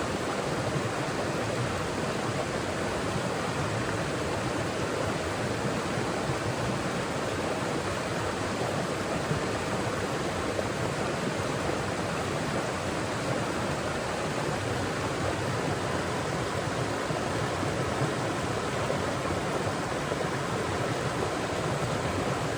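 Mountain forest stream: water flowing and splashing over rocks in a steady rushing stream.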